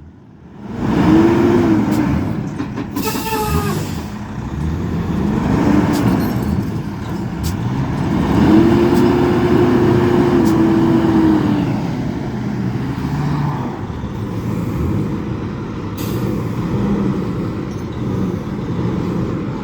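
A vehicle engine revving up and back down in repeated surges, with one longer surge held for a few seconds about halfway through, as a vehicle tries to get moving on an icy, snow-covered road.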